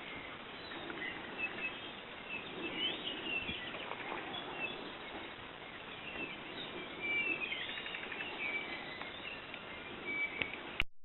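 Many small birds chirping and calling at once, with short high chirps scattered throughout, over a steady background hiss. The sound cuts off abruptly with a click near the end.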